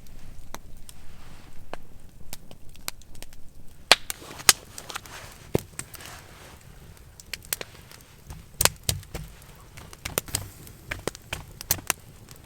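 Irregular sharp wooden cracks and snaps, with two loud ones about four seconds in and a cluster with low thuds near nine seconds.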